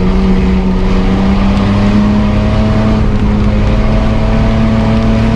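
Mitsubishi Pajero's engine running hard under load, heard from inside the cab while it drives over a muddy off-road track; its note holds steady and rises slightly toward the end.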